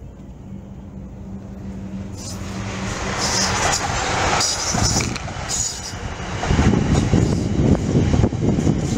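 Multi-carriage passenger train approaching and running past on the line, its wheels on the rails growing from a faint hum into a rising rush and then a loud, close rumble about six and a half seconds in.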